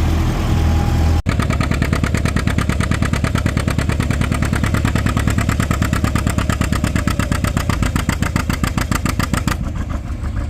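Antique pulling tractor's engine running hard under load as it pulls the weight sled, with a rapid, even exhaust beat. The sound cuts in about a second in; before that the engine runs steadily.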